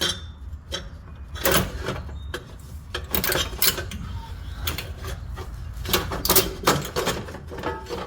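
Irregular metal clanks and clinks of tools and engine parts being handled as a turbocharger is worked loose and pulled from the engine bay.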